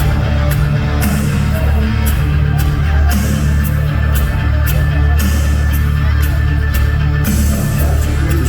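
Rock band playing live: a heavy, steady bass line under drums, with regular cymbal strokes.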